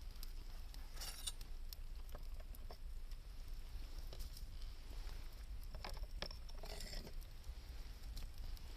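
Wood campfire crackling with scattered sharp pops and ticks, with two short, denser bursts of crackle about a second in and around six to seven seconds in.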